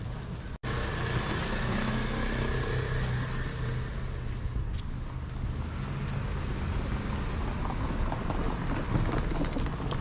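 Street noise with a motor vehicle's engine running close by, a steady low hum.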